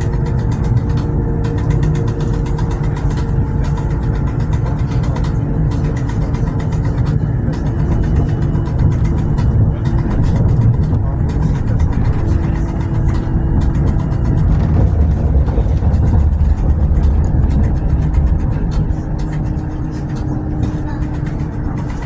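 Tram running along the track: a steady low rumble with humming motor tones that shift pitch a couple of times, and frequent light clicks from the wheels and rails.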